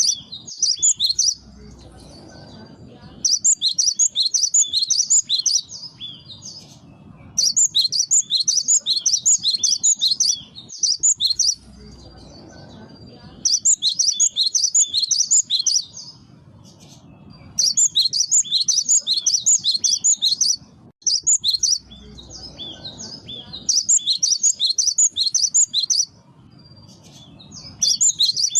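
Cinereous tit (gelatik batu) singing, played as a bird-lure recording. It gives rapid strings of high, sharp repeated notes in bursts of two to three seconds, with short pauses between them.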